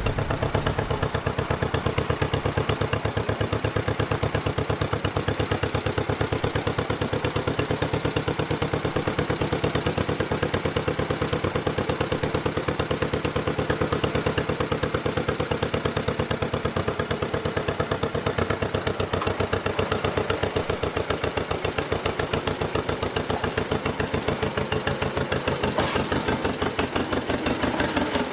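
1955 John Deere 40 S tractor's two-cylinder engine running steadily, with an even, rapid chugging exhaust beat.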